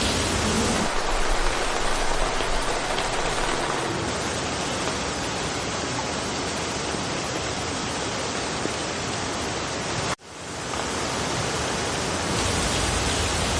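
Steady rain falling through forest foliage, an even hiss. About ten seconds in it cuts out for an instant and swells back over about a second.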